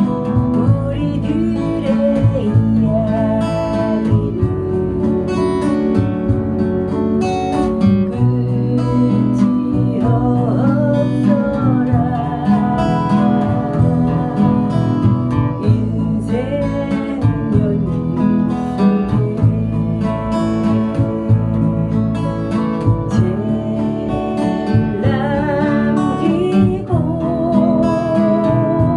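Acoustic guitar music: a strummed acoustic guitar accompaniment with a melody line that wavers with vibrato.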